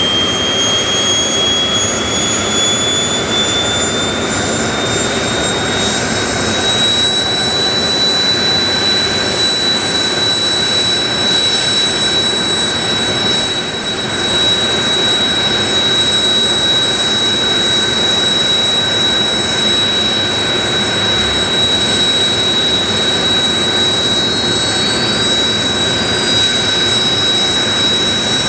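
Kawasaki T-4 jet trainers' turbofan engines starting up: a high whine climbs in pitch over the first several seconds, then holds steady at idle over a steady rush of jet noise. Near the end a second whine begins to climb as another engine spools up.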